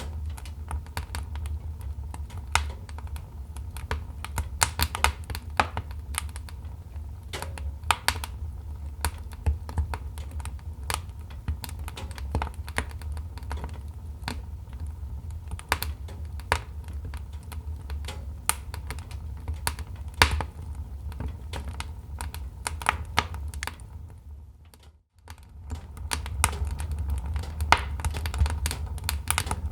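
Wood fire crackling, with irregular sharp pops and snaps over a steady low rumble. About 25 seconds in, the sound fades out briefly and then comes back.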